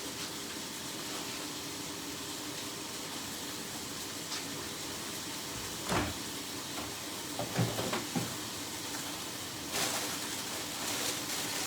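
Chicken frying in a pan, a steady sizzle, with a few knocks of kitchenware about halfway through and a louder rustling noise near the end.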